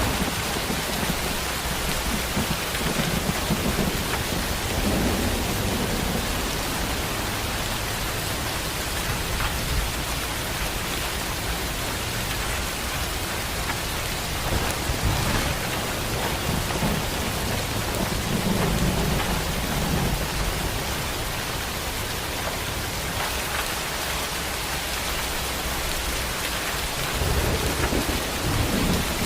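Heavy rain pouring steadily, with low rolls of thunder rumbling up three times: about five seconds in, around eighteen to twenty seconds, and again near the end.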